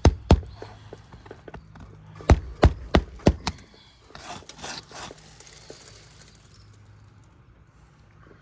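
Sharp cracks and knocks from brittle asphalt roof shingles being lifted and worked: two at the start and four more in quick succession about two to three seconds in, then a brief scraping rustle.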